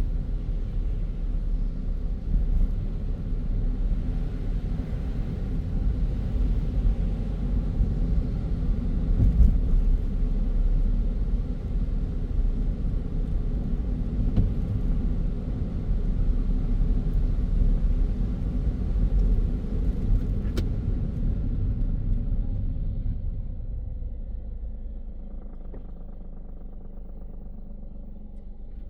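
A car driving on a city road, a steady low rumble of tyres and engine, that dies down to a quieter low hum about 23 seconds in.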